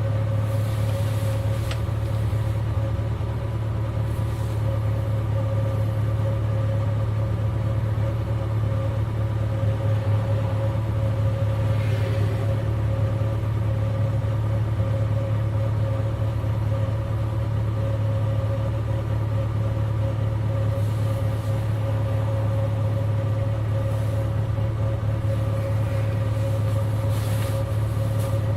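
V8 car engine running at a constant speed: a steady low tone with no revving or change in pitch, as when cruising in fifth gear.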